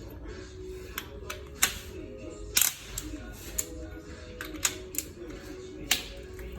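Irregular metallic clicks and clinks of hand tools on engine parts during a teardown, with a few sharp clacks standing out, over quiet background music.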